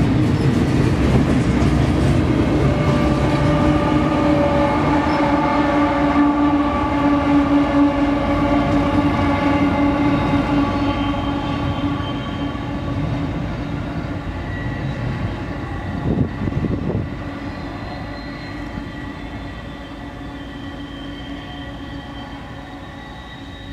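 Double-stack container freight train's cars rolling past with wheel clatter and steady tones over a rumble, then its rear locomotive, a GE ES44AC diesel, goes by and the sound fades gradually as the train pulls away.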